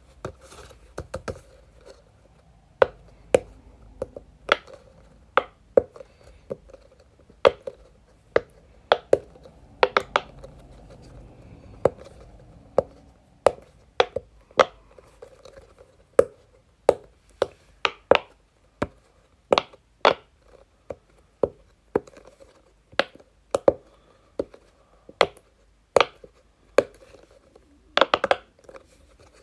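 Silicone pops of a medium-size Pop-It ball fidget toy being pressed in one at a time, a sharp popping click roughly once or twice a second, with a quick cluster of pops near the end.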